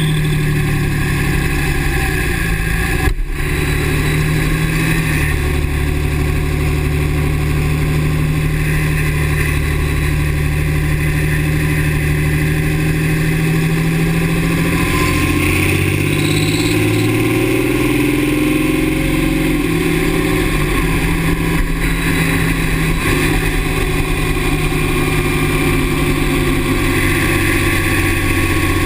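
2009 Dodge Ram's 6.7 L Cummins inline-six turbo diesel running, its engine speed rising and falling, with a thin whine that slides in pitch in places. The owner suspects the turbo for the squeal, which he hears only with the exhaust brake engaged. A single sharp click about three seconds in.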